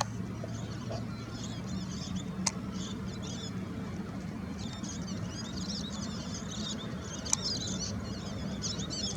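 Small birds twittering in quick, high chirps over a low steady hum, with two sharp clicks, one about two and a half seconds in and one about seven seconds in.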